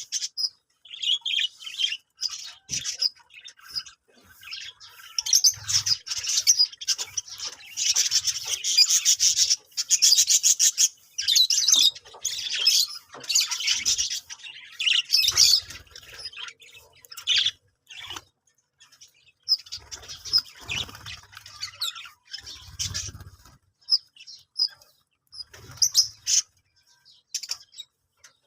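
Budgerigars chirping and chattering in bursts, busiest in the middle stretch.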